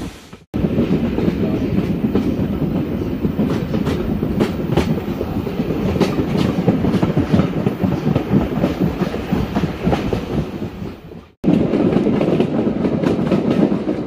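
Heritage steam train's carriages running along the line, heard from a carriage window: a steady rolling rumble of wheels on rail with frequent clickety-clack clicks over the rail joints. The sound breaks off briefly near the start and again about eleven seconds in.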